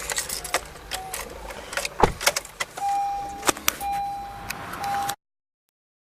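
Clicks and knocks of someone handling a car, then a car's electronic warning chime sounding as three steady beeps at one pitch, the middle one longest, before the sound cuts off abruptly.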